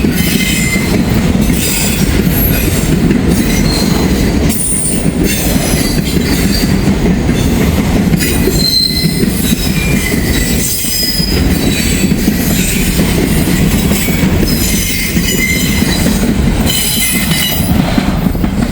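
Freight train rolling past close by: a steady heavy rumble of the railcars, with short high-pitched wheel squeals scattered throughout.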